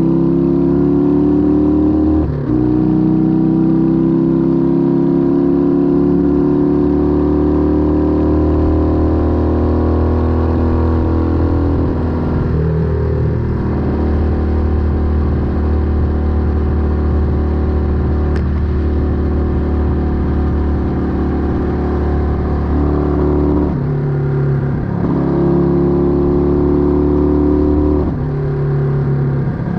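Exhaust of a 1968 Honda Dream CD250's parallel-twin engine under way, its pitch climbing slowly as the bike pulls. The pitch breaks and drops several times at gear changes, about two seconds in, near halfway and a few times near the end.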